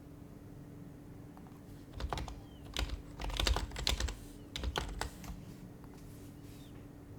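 Typing on an HHKB Professional HYBRID Type-S keyboard with silenced Topre capacitive keys: a short run of keystrokes starting about two seconds in and stopping about five seconds in. A steady low hum runs underneath.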